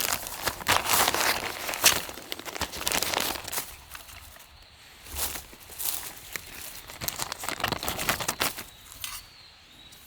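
Crinkling and rustling of handled material in irregular bursts, dying down about nine seconds in.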